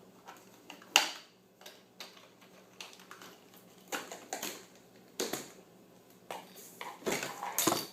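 Hard plastic clicks and knocks as the hose is unclipped and pulled from the back of a Hoover SteamVac carpet cleaner: one sharp click about a second in, then scattered knocks and rattles, busiest near the end.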